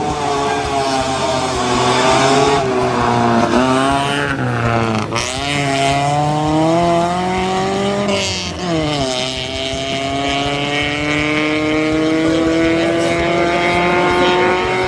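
Rally car engine accelerating hard, revs climbing and falling back at each upshift, three times in the first nine seconds, then a long, slow rise in pitch as it pulls in a higher gear.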